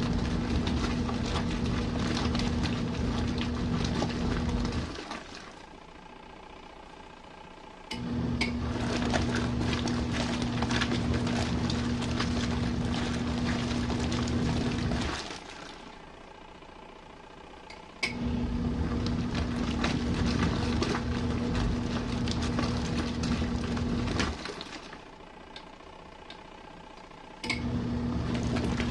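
RV washing machine in its main wash cycle. The wash motor runs with a steady hum for about five to seven seconds at a time, stops for about three seconds, then starts again with a sharp click, three times over.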